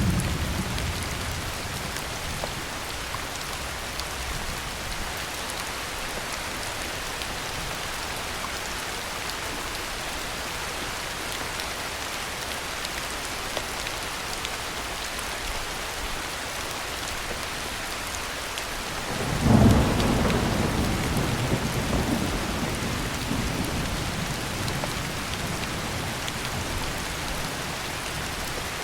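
Heavy rain falling steadily, with a low thunder rumble trailing off at the start. About two-thirds of the way through, a loud clap of thunder rolls and slowly dies away.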